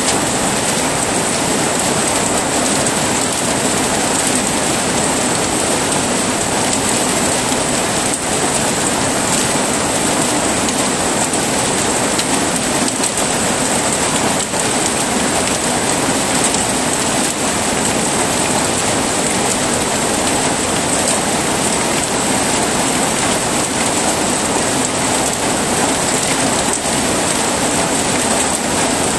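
Heavy rain falling steadily: a dense, even hiss of rain with many small drop patters throughout.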